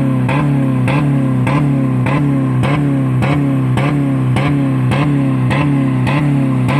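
A 2000 Dodge Neon's 2.0-litre four-cylinder engine held at high revs, around 4000 rpm, with a steady pulse about three times a second as it bounces off the rev limiter. The engine is being run with no oil or coolant left in it.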